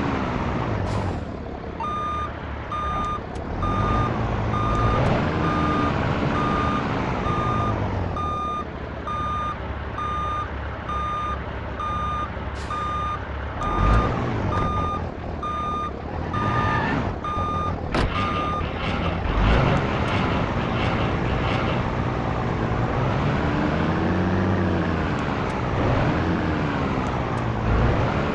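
Heavy diesel truck manoeuvring: a reversing alarm beeps steadily at about two beeps a second from about two seconds in until roughly two-thirds of the way through. Under it the engine rises and falls in revs, with a few sharp clicks.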